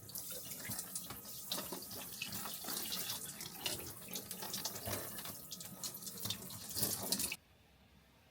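Water running from a tap into a sink with splashing, which cuts off suddenly about seven seconds in.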